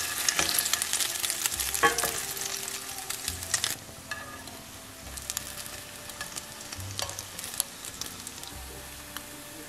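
Egg-soaked French toast sticks frying in a pan: a steady sizzle with crackling, louder for the first few seconds and quieter after. A few sharp clicks as the spatula and tongs turn the pieces, the loudest a ringing click about two seconds in.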